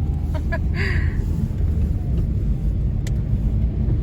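Steady low rumble of a moving car heard from inside the cabin: engine and road noise, with a sharp click about three seconds in.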